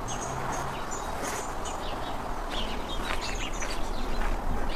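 Small birds chirping, with many short, high calls scattered through a steady outdoor background hiss.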